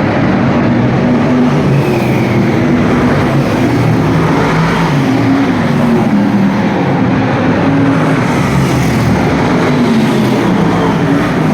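V8 stock car engines racing on an oval, running hard with the pitch rising and falling as they come off and on the throttle.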